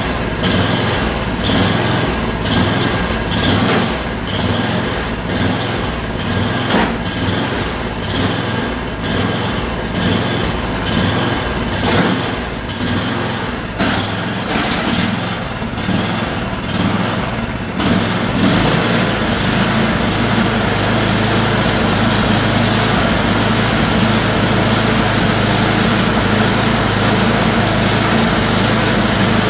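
Yard Machines snowblower's small gas engine running. It pulses unevenly at first, then about two-thirds of the way in settles into a smooth, steady run.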